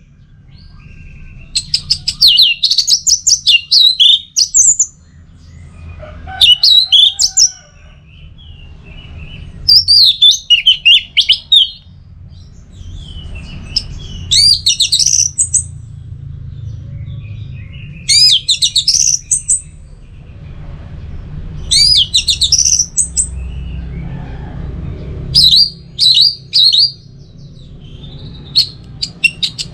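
Orange-headed thrush (anis merah) singing: varied, rapid whistled phrases of one to three seconds each, coming every few seconds with short pauses between, over a low steady hum.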